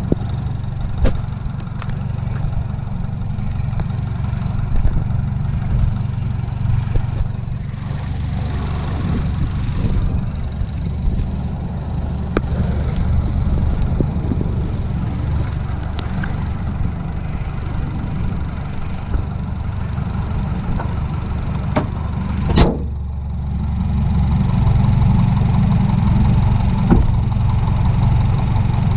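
Citroën DS3 Racing's 1.6 THP turbocharged four-cylinder engine, fitted with a K04 hybrid turbo and Milltek downpipe, idling steadily, heard from inside the car. Late on there is one sharp knock, after which the idle is a little louder.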